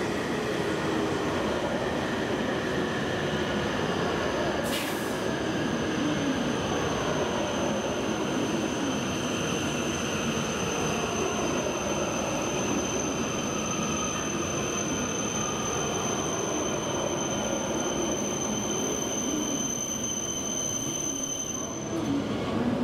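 E7 series Shinkansen train running along the tracks. A steady, high-pitched squeal sets in about five seconds in over the rolling noise and cuts off shortly before the end.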